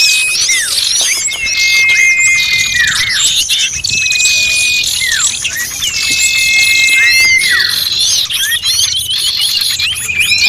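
Bird-lure recording of many small birds calling noisily at once: dense, high chirping with long held whistles that drop off sharply at the end, repeating about every two seconds.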